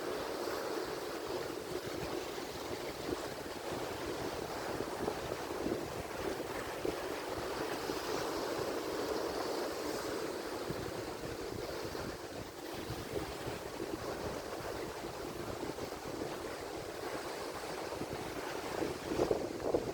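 Atlantic Ocean surf: waves breaking and washing in a steady, continuous rush.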